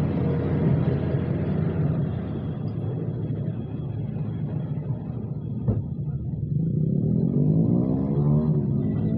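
Car engine running steadily, with a sharp click a little past halfway, then revved up in the last few seconds.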